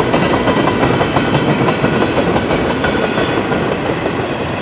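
Cars of a CN freight train rolling past, steel wheels clicking over the rail joints in a fast, steady run of clicks.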